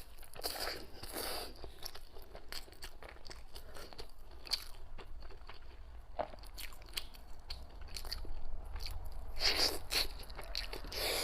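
Close-miked chewing of a sticky rice dumpling (zongzi) with pork belly filling: a run of wet mouth clicks and smacks. There are heavier bites or slurps near the start and again near the end.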